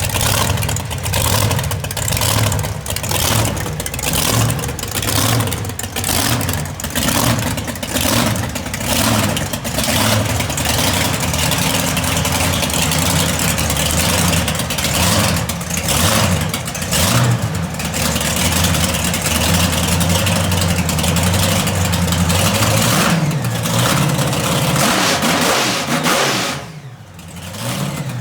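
Monster truck engine running loud, revved in repeated short blips for the first ten seconds or so, then held at a steadier high note, easing off briefly near the end.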